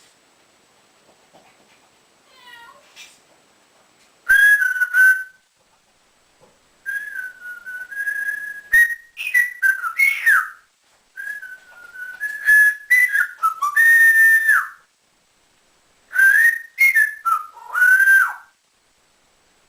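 African grey parrot whistling in four phrases of pitched notes that slide up and down.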